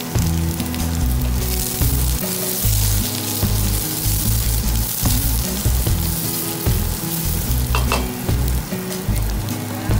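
Chopped onion, carrot and garlic sizzling in hot oil in a wok while a wooden spatula stirs them; the sizzle grows louder about a second and a half in. Background music with steady low notes plays underneath.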